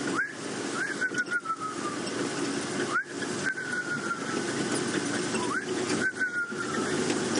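A man whistling his imitation of a fiery-necked nightjar's call: three phrases, each a quick rising note followed by a long, quavering note that slides downward.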